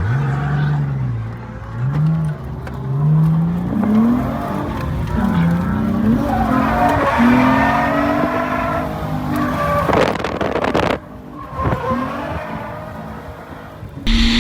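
Drift car engine revving up and down over and over as it slides, with tyres squealing around the middle and a brief rush of noise about ten seconds in.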